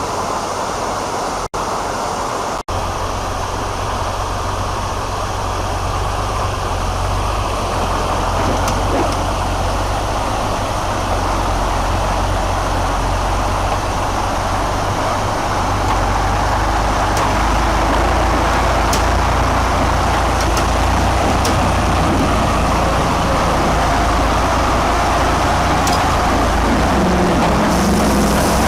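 Heavy vehicle engine and road noise: a steady low rumble with a noisy haze above it. The sound drops out twice very briefly near the start and grows a little louder about halfway through.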